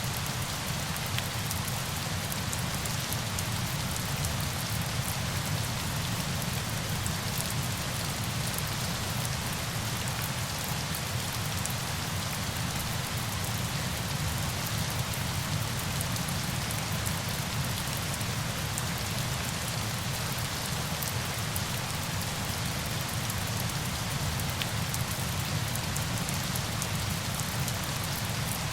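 Steady, unbroken rush of falling water, with fine drop-like patter in the highs and a deep low rumble underneath.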